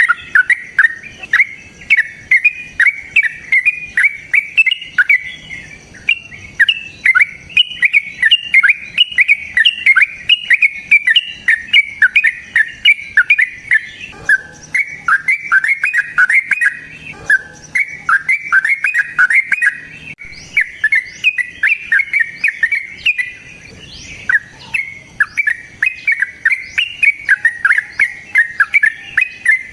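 Lovebird singing its long chattering song, the 'ngekek panjang': a fast, unbroken string of sharp, high chirps with a few short pauses.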